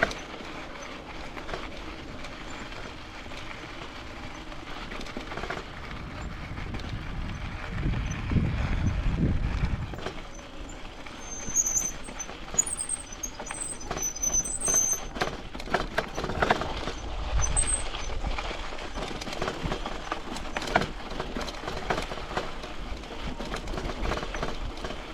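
Mountain bike rolling over a rough track: tyre noise with rattling clicks that grow busier through the second half. There is a low rumble about eight seconds in and a few short high chirps around the middle.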